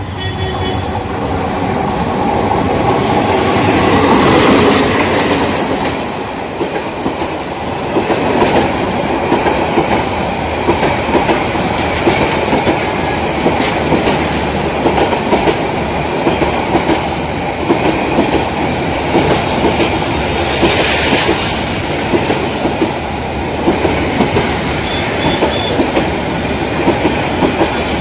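Diesel-hauled passenger train passing close by: the locomotive's engine swells to its loudest about four seconds in and fades, then the coaches' wheels clatter over the rail joints in a steady, regular rhythm.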